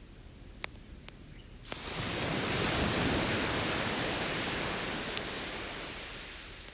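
An ocean wave breaks and washes up the beach: a rush of surf that rises quickly about two seconds in and slowly fades away over the next four seconds. A campfire crackles with a few sharp pops on either side of it.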